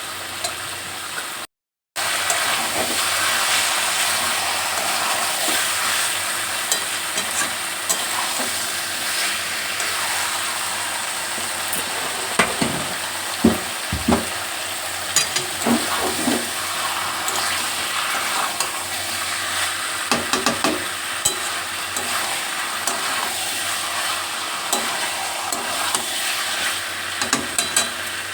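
Marinated chicken sizzling in hot oil in a pan as it is sautéed (kasha), with a spatula stirring and knocking against the pan in scattered clicks. The sound cuts out for about half a second early on.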